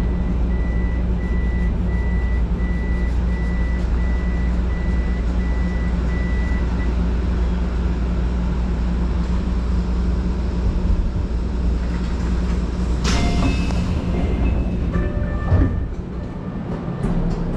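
Keio electric commuter train running, a steady low rumble heard from inside the car, with a repeating high beep through the first seven seconds. About thirteen seconds in comes a sudden hiss with brief tones, and a thud a couple of seconds later, after which the running noise goes quieter.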